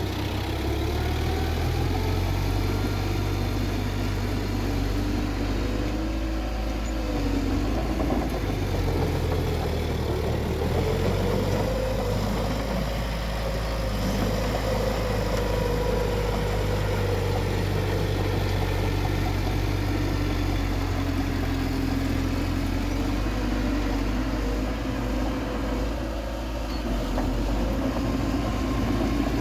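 Bulldozer's diesel engine running steadily under load, its pitch slowly rising and falling as it works.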